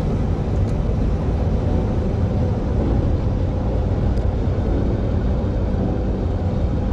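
A truck's engine and tyre noise heard from inside the cab while driving on the highway: a steady low drone that holds even throughout.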